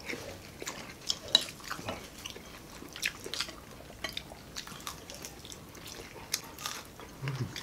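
Chewing and crunching of crispy fried pork belly, with spoons clinking against plates and bowls. These come as scattered sharp clicks, the loudest about a second and a half in.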